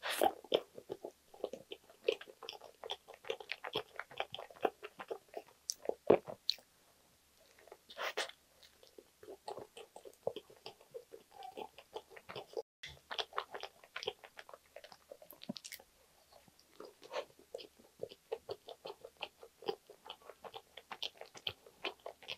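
Close-miked bites and chewing of a soft white-bread strawberry sandwich: moist mouth sounds with many small clicks, pausing briefly twice between mouthfuls.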